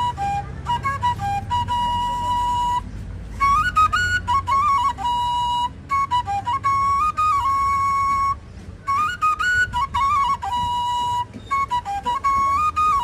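A solo flute playing a repeating melody of quick little runs and long held notes, over a steady low rumble.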